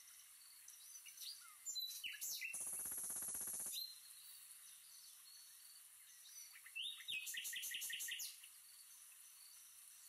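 Birds chirping and calling. About two seconds in, a loud harsh chattering call lasts over a second, and around seven seconds in comes a quick run of repeated notes, with softer chirps in between.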